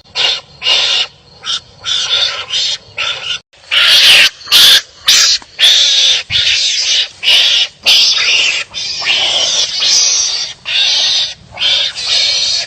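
Wild animals squabbling with harsh, noisy barking calls that come in rapid bursts with short gaps between them, loudest about four to five seconds in.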